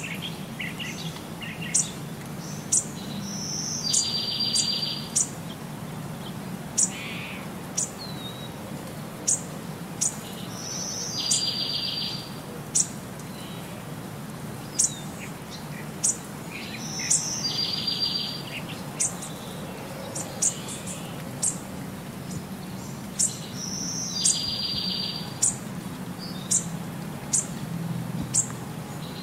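Songbird chirps repeating in a loop: short high chirps about once a second, with a longer buzzy trill every six to seven seconds, over a faint steady low hum.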